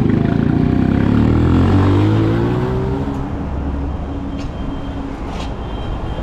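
Motorcycle engine accelerating, its note rising steadily for about three seconds, then easing off to a lower, steady running note.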